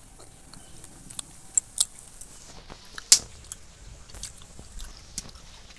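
A person biting into and chewing a soft palm-fruit rice pancake with the mouth closed: scattered small mouth clicks, the loudest about three seconds in.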